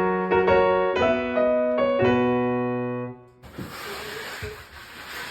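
Piano background music plays a few notes and ends on a held chord that fades out about three seconds in. After that there is a quieter, even hiss.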